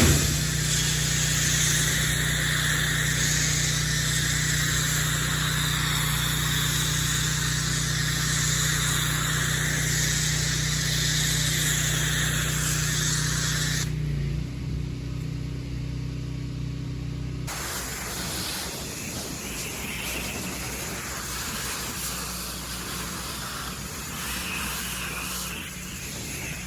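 Pressure washer running steadily with the hiss of its water spray swelling and fading as the nozzle sweeps across siding. The spray stops for a few seconds about 14 s in, and from about 17 s a rougher spray hiss continues without the machine hum.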